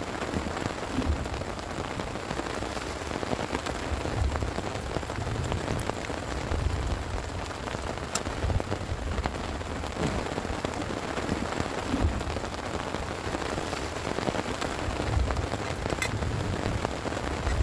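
Heavy rain falling steadily, with scattered sharper drop impacts and an uneven low rumble underneath that swells and fades.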